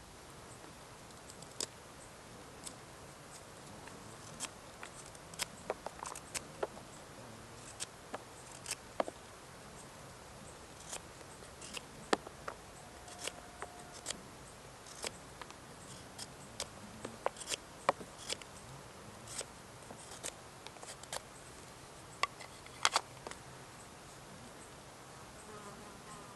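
Wood fire crackling: irregular sharp pops and snaps, about one or two a second, over a quiet hiss.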